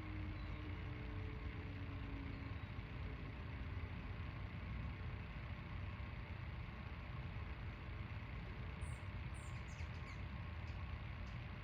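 Steady low outdoor rumble, like distant traffic, with a few short, very high-pitched bird chirps about nine to eleven seconds in.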